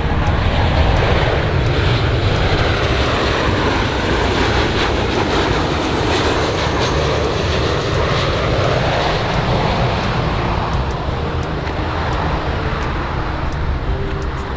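Airplane engine noise as a plane passes: a loud, steady rushing whose tone slowly sweeps down and back up.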